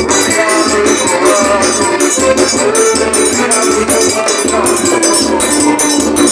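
Forró trio playing an instrumental passage without singing: a melody line over a regular bass drum thump, about one and a half a second, and a constant shaker-like rattle.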